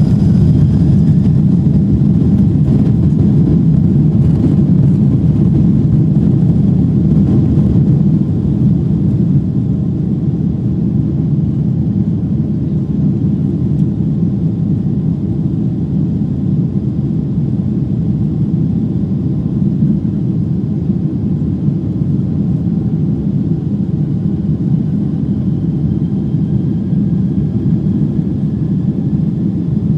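Boeing 767-300ER cabin noise: a steady low rumble of jet engines and airflow heard from inside the passenger cabin, easing slightly after the first several seconds, with a faint rising whine near the end.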